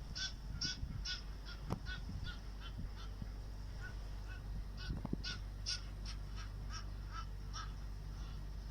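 A bird calling in a rapid run of short repeated notes, about two to three a second, that breaks off for about a second and a half and then starts again. Two sharp knocks fall about two and five seconds in.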